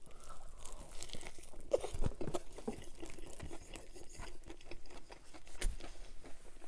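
A person biting into a sandwich of Domino's pan pizza and chicken fingers, then chewing it close to the microphone: irregular crunching with many small clicks.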